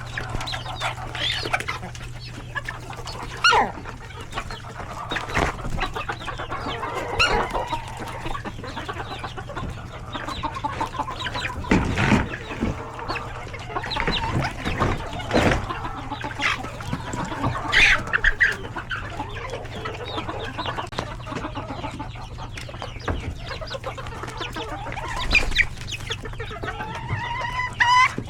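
Flock of chickens with chicks calling in a coop at feeding time: a continual mix of hens clucking and chicks peeping, with a few louder squawks, over a steady low hum.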